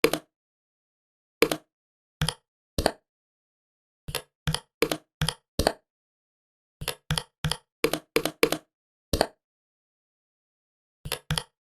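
Computer keyboard keys being pressed one at a time in irregular runs, about nineteen separate clicks with short pauses between groups.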